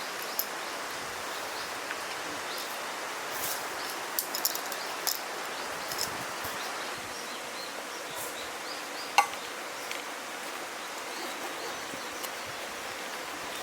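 Steady outdoor insect chorus, with scattered light clicks and one sharper knock about nine seconds in.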